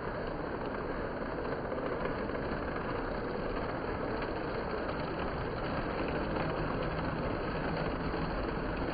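Lionel toy trains running together on three track loops: a steady hum and rumble of motors and wheels on the rails.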